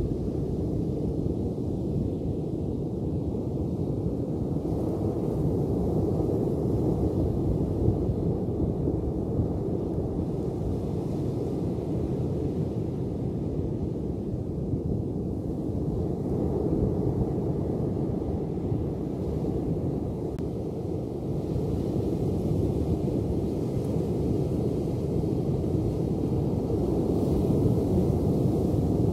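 Ocean surf: a steady, low rush of waves that slowly swells and eases.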